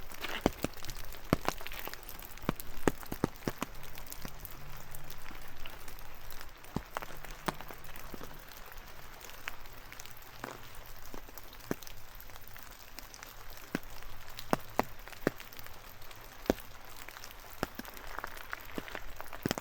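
Rain falling, with a steady light hiss and irregular, sharp taps of large drops landing close by.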